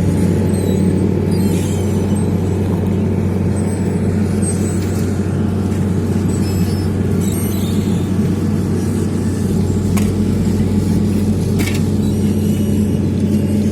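Heavy diesel engine of road-paving machinery running steadily at a constant speed, with two short sharp knocks near the end.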